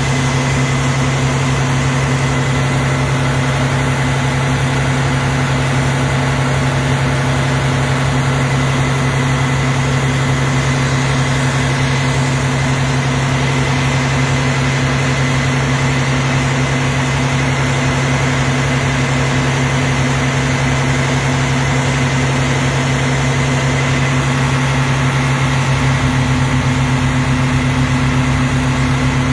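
A vehicle engine idling steadily close by, with an unchanging deep hum.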